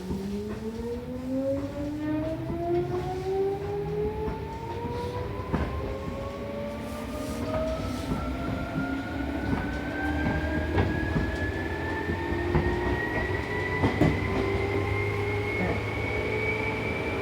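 Seibu New 2000 series electric train accelerating away from a station: the motor whine climbs steadily in pitch and levels off near the end, over running rumble with scattered clicks from the track.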